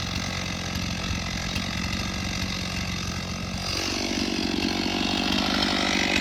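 Chainsaw running at a steady idle, then revved up to a higher, louder pitch a little over halfway through.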